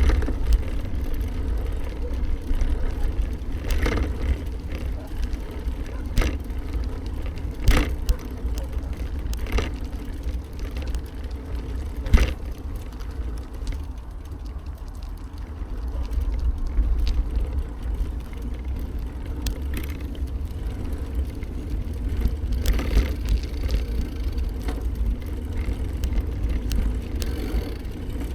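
Noise of a bike ride: a steady low rumble of wind and road on the microphone, broken by several sharp knocks, the loudest about 8 and 12 seconds in.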